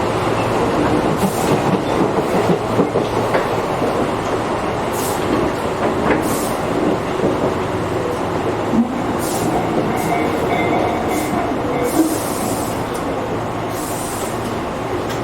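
Tobu 8000 series electric train running, heard from inside the passenger car: a steady rumble of wheels and motors with clicks over rail joints. A thin high squeal comes in for about two seconds around two-thirds of the way through.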